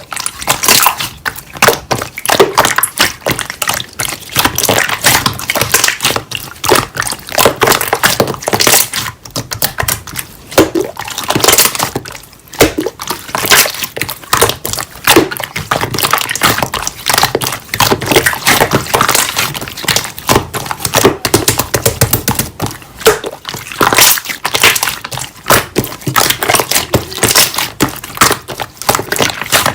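Slime being squished, pressed and stretched by hand, making a dense, rapid stream of wet clicks and pops.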